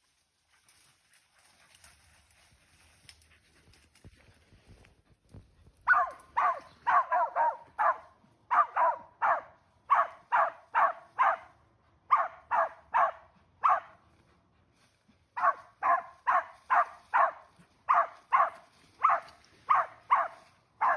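Hunting dog barking in fast runs of about two to three barks a second, starting about six seconds in, with a short break about two-thirds of the way through.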